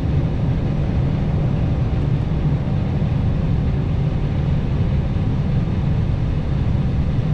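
Steady low rumble inside an Airbus A320 cockpit during the takeoff roll, with the engines at takeoff thrust.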